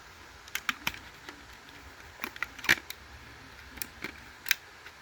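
Scattered sharp plastic clicks and taps from handling an American Sensors 770LBX smoke alarm while fitting its battery, about half a dozen in all, the loudest a little past the middle.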